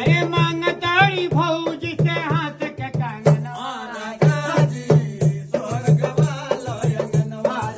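A song: a voice singing a wavering, heavily ornamented melody over a steady drum beat of about three strokes a second.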